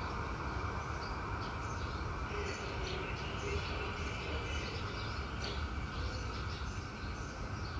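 Low steady rumble of a distant freight train, with birds chirping.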